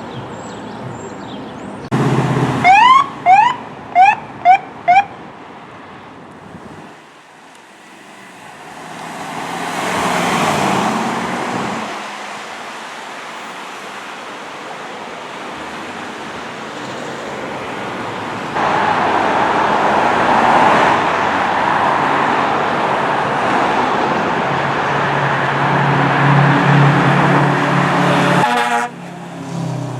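Emergency vehicle siren giving a quick series of about six short rising chirps, then engine and road noise from responding traffic swelling as vehicles pass, with a loud stretch that cuts off sharply near the end. A siren begins wailing just at the close.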